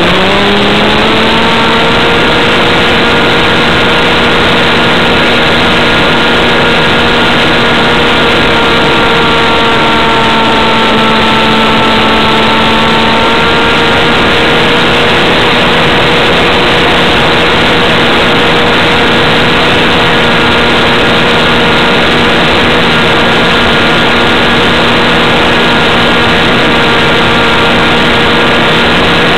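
RC airplane's two-stroke model engine running hard. Its pitch climbs quickly in the first couple of seconds, then holds at a steady high whine with a slight sag in the middle, over a constant rush of noise.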